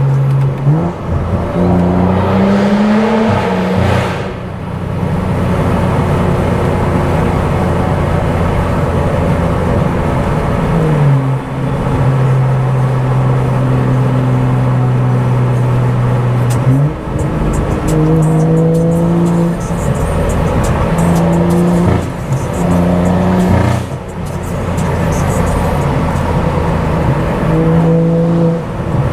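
Stage 2+ tuned BMW F10 535i's turbocharged straight-six with a brutally loud exhaust, heard while driving: it revs up and steps down through gear changes, holds a steady cruise in the middle, then pulls through a run of quick upshifts near the end.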